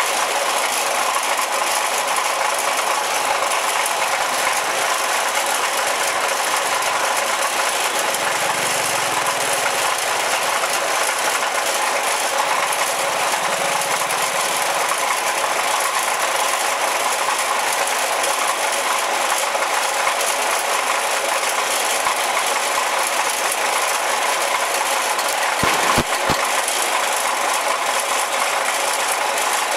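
Steady running noise of a train heard from inside a carriage, with a faint rattle, while the train stands or crawls. Two sharp knocks come about three-quarters of the way through.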